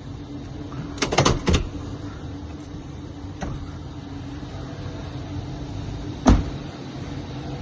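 Car idling with a steady low hum. About a second in there is a quick run of four or five clicks and knocks, and just past six seconds a single loud thump, the loudest moment.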